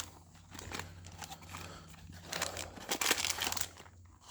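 Packaging material being crumpled and torn by hand, an irregular crinkling that is loudest about halfway through.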